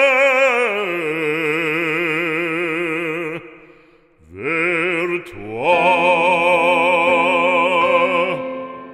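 Operatic singing: a solo voice holds two long notes with wide vibrato. The first note drops in pitch about a second in and fades out before the middle. After a short gap, the voice slides up into the second held note.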